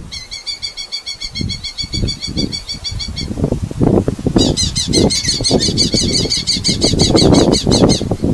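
Red-footed falcon giving two rapid chattering call series of about ten notes a second, the first lasting about three seconds and the second starting about four seconds in. Loud low bumps and rustling run underneath.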